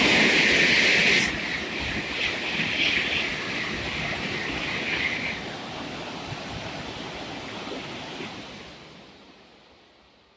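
Tokaido Shinkansen train rushing through at speed: a loud, even roar of air and wheels that is loudest in the first second or so, then fades steadily to near silence by the end.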